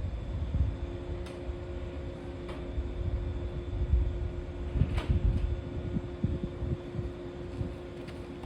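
A steady mechanical hum with two even tones over a low rumble, broken by a few short clicks, the sharpest about five seconds in.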